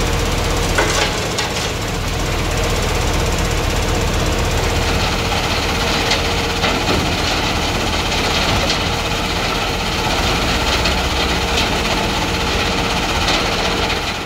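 SBS 1820 F3 mobile screening plant running, its engine and vibrating screen giving a steady, loud mechanical rattle with a low hum and occasional knocks. The sound cuts off abruptly at the very end.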